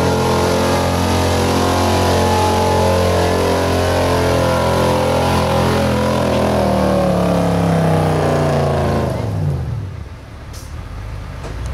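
1976 Ford F-350's 429 cubic-inch V8 gas engine running hard under load as the truck pulls the sled. About nine seconds in, the revs fall away and the engine drops much quieter as the pull ends.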